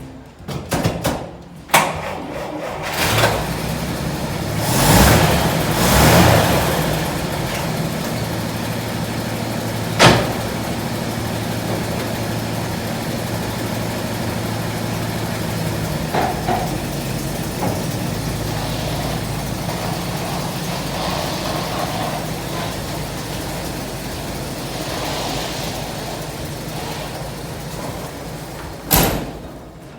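A 1988 Dodge Ram D150 pickup's engine idling steadily, with a few louder swells in the first seconds, a sharp knock about ten seconds in and another near the end.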